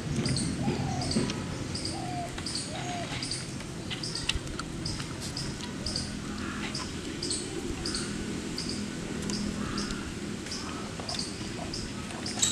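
A small bird chirping over and over, a short high chirp about twice a second.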